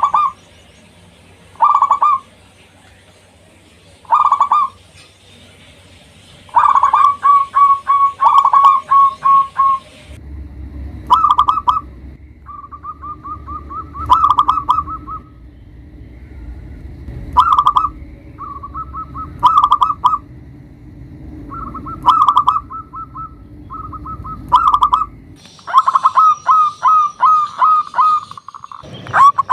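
Zebra dove (local perkutut) cooing: repeated phrases of quick rolling notes, short single phrases at first, then longer strings of notes from about six seconds in. A low hum sits under the calls from about ten seconds in until about twenty-five seconds.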